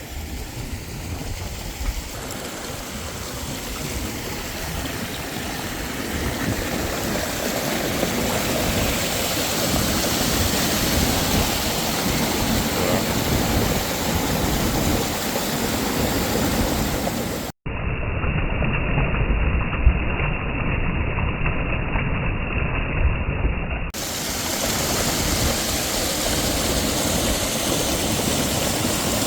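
Small waterfall and river rushing over rocks, a steady rush of water. A little past halfway the sound turns muffled for about six seconds, then the full rush returns.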